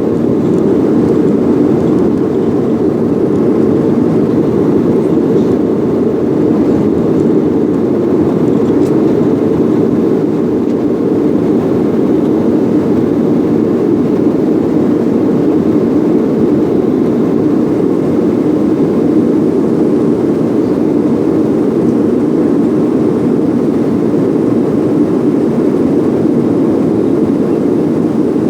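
Steady engine and airflow noise inside the cabin of a Boeing jet airliner during takeoff and climb, with no change in level.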